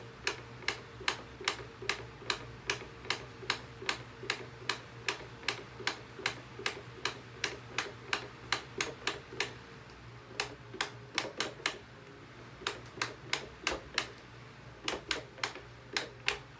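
Electric table fan running with a steady hum while something knocks against it in sharp, even clicks about two or three times a second; from about ten seconds in the clicks turn uneven, with short gaps.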